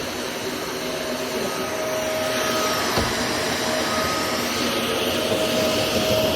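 Shark Navigator NV350 upright vacuum cleaner running, a steady motor drone with a constant whine. It gets a little louder from about two seconds in, with one light knock about three seconds in.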